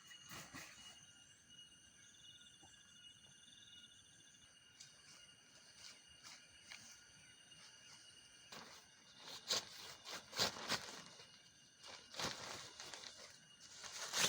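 Night insects trilling steadily in several high, thin tones, with a few louder short rustling sounds in the second half.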